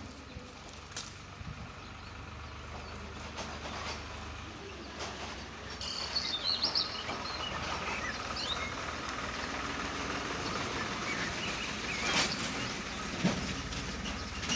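Outdoor background noise: a steady rumble that slowly grows louder, with a few bird chirps about six seconds in and again near the end.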